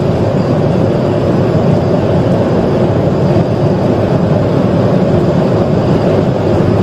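Steady, loud rumble of a police patrol car driving at high speed during a pursuit, with road, wind and engine noise heard from inside the vehicle.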